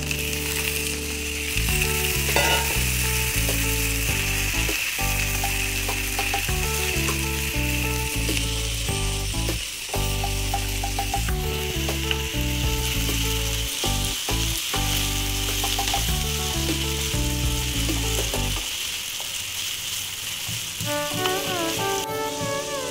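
Diced potatoes sizzling steadily in hot oil in a frying pan, turned now and then with a wooden spatula. Under the sizzle runs a tune of changing low notes that drops out near the end.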